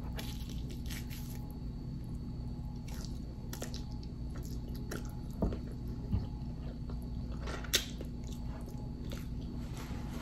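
Close-up chewing of barbecued pork ribs, with a few short, sharp mouth clicks over a steady low hum.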